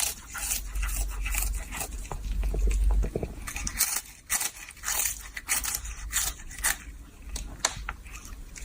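A run of irregular crunches and clicks, with a low rumble in the first three seconds.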